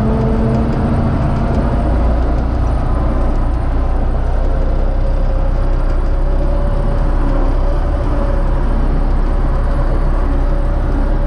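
UTB U650 tractor's four-cylinder diesel engine running at a steady speed, a deep drone with a faint steady whine above it.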